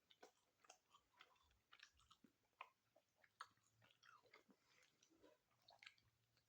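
Faint close-up chewing of a sandwich: irregular wet mouth clicks and smacks, several a second.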